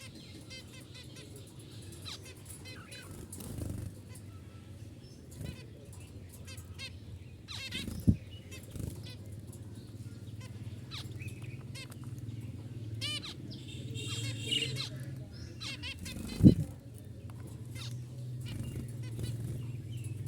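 Several budgerigars chirping and warbling together in a steady stream of short, high chirps over a low steady hum. Two sharp thumps stand out, about 8 and 16 seconds in.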